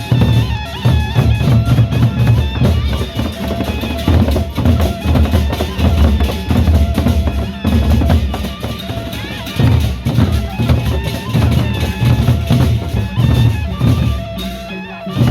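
Loud live band music from a wedding-procession group: heavy, busy drumming with bass drum hits under a melody line.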